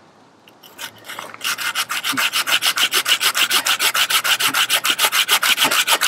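Hand saw cutting through wood with fast, even back-and-forth strokes, about five a second, starting about a second and a half in.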